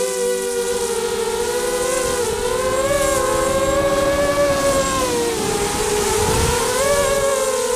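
Spedix 250 FPV racing quadcopter's brushless motors and propellers whining in flight, several close pitches rising and falling together with the throttle. About five seconds in the pitch drops and wind rumbles on the onboard microphone, then the motors spool back up.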